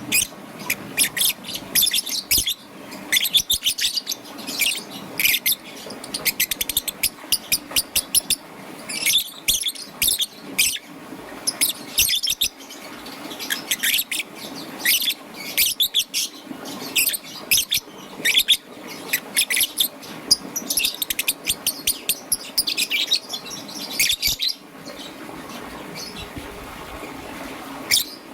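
Young peach-faced lovebird chirping in rapid, high-pitched runs of short notes. The chirping stops about four seconds before the end, apart from one last brief chirp.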